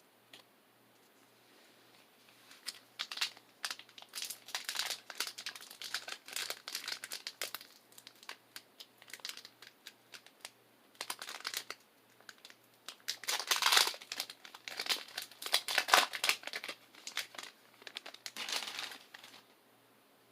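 Foil wrapper of a Pokémon booster pack crinkling and tearing as it is opened by hand, in many quick crackles that come thickest and loudest a little past the middle.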